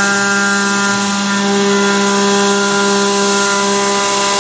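Carvera Air desktop CNC mill running a shallow 0.2 mm milling pass: a steady whine from the spindle and cutter, over the even hiss of the air-assist jet blowing chips away.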